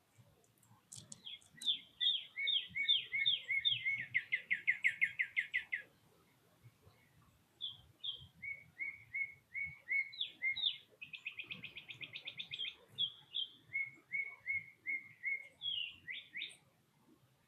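A songbird singing loud, clear whistled phrases: repeated down-slurred notes that speed up into a fast trill. There is a pause of about a second and a half in the middle, then a second phrase of slurred notes and trills.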